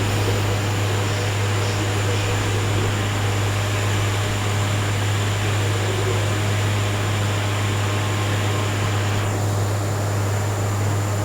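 Steady low hum with an even hiss, unchanging throughout: the constant background noise of a running fan or air-conditioning-type machine in the recording room.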